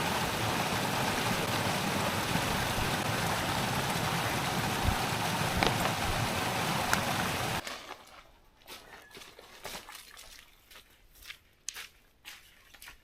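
Small mountain stream running steadily, trickling water close by. It cuts off suddenly about two-thirds of the way through, leaving only faint scattered clicks and taps.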